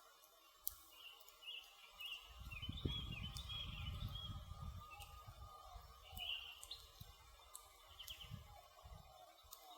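Wood fire crackling with scattered sharp pops, while birds chirp repeatedly in the background. A low rumble swells about two seconds in and fades after a few seconds.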